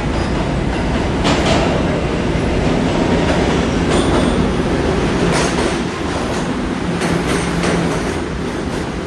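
R211A subway train running along the track: a steady rumble and low hum, with wheels clicking over rail joints every second or so.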